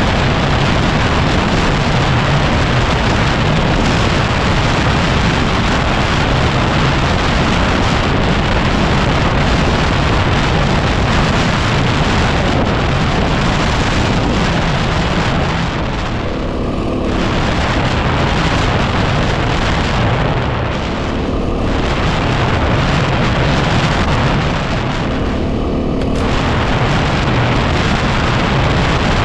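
Heavy wind noise buffeting the microphone of a moving 2010 Yamaha WR250R trail bike, mostly drowning out its 250 cc single-cylinder engine. The wind eases three times, about halfway through, a few seconds later and again near the end, and each time the engine note comes through briefly.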